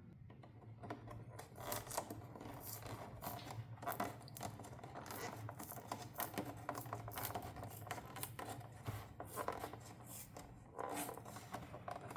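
Hands unwrapping and handling toy packaging: irregular crinkling, scraping, tearing and small clicks, with a steady low hum underneath.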